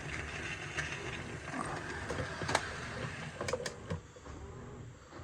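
Motor and gears of an HO scale Athearn GP38-2 model locomotive running on a test track, a steady small mechanical whir with a few sharp clicks in the middle; it gets quieter about four seconds in.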